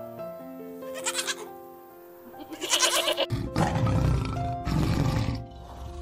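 Goat bleating twice, short pulsing calls about a second in and again near the middle, over background music of steady notes. In the second half a louder, low, rough sound comes in.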